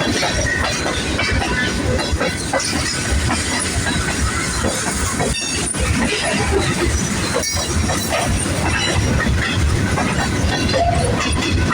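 Freight cars of an empty manifest train rolling past, a steady rumble with irregular clicking and rattling from the wheels and cars.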